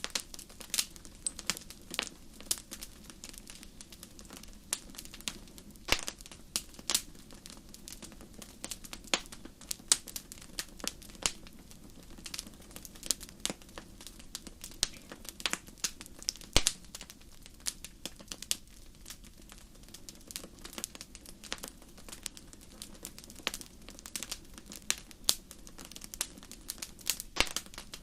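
Fire crackling in a fireplace: irregular sharp pops and snaps, several a second and some much louder than the rest, over a steady low rumble.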